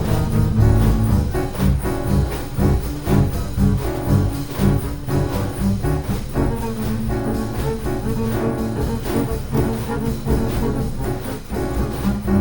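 A jazz trio of piano, double bass and drums playing free, improvised jazz, with frequent drum and cymbal strikes over bass and piano notes.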